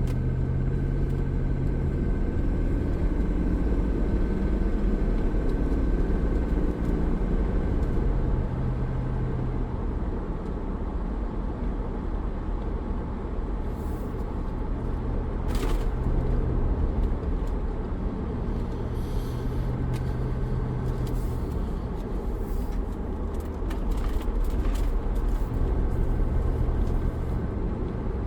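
Cabin noise inside a 2004 Land Rover Discovery 2 on the move with the windows rolled up: a steady low drone of engine, tyres and wind, with a single sharp click about halfway.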